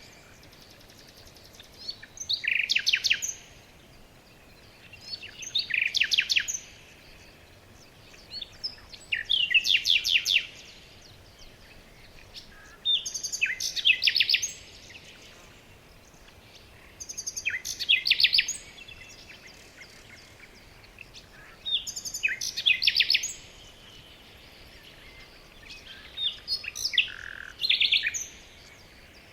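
A songbird singing the same short, trilled, high-pitched phrase over and over, about every four seconds, seven times in all.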